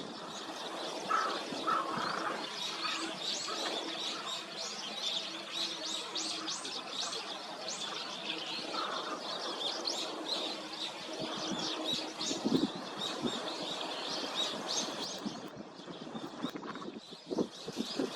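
A flock of Eurasian tree sparrows chirping, many short high calls overlapping, stopping about three seconds before the end.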